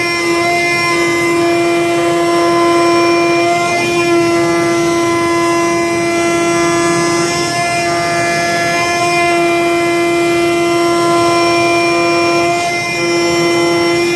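IECHO flatbed digital cutting machine running while cutting foam board: a steady whine with several overtones, wavering briefly a few times.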